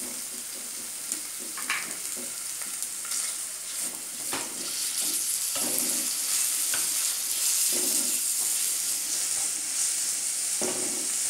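Chicken keema and onion-ginger-garlic paste sizzling in hot oil in a non-stick pan, with a wooden spatula stirring and scraping through it in separate strokes. The sizzle grows louder about halfway through.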